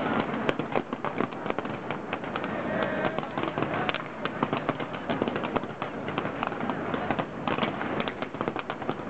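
Aerial fireworks bursting overhead: a dense, continuous run of sharp bangs and crackles, several a second.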